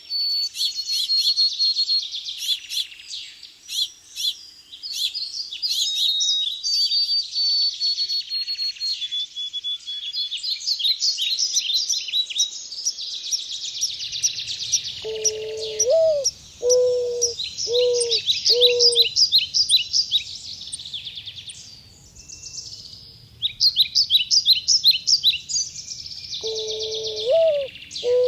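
Several songbirds singing together, with fast high chirps and trills. About halfway in, a mourning dove gives its cooing song, one rising note followed by four steady lower coos, and begins the song again near the end.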